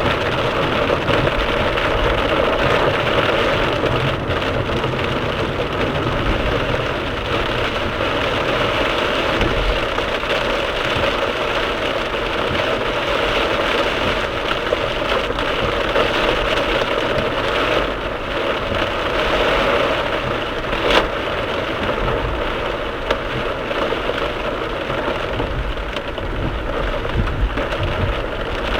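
Torrential downpour drumming on a moving car, recorded inside by a dashcam: a dense, steady rush of rain noise, with one sharp click about two-thirds of the way through.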